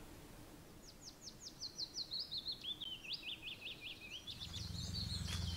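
Small songbird singing: a fast run of repeated high chirps that falls in pitch, then busier twittering. A low steady rumble comes in near the end.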